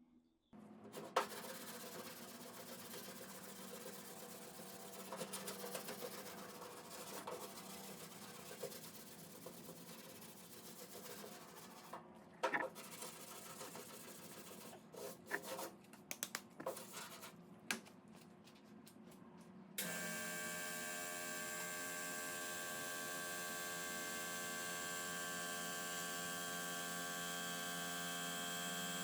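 Sandpaper on a sanding block rubbed by hand over cured body filler on a steel door panel: a quiet, uneven scraping with a few knocks. About two-thirds of the way through it cuts off abruptly and a steady electrical hum takes over.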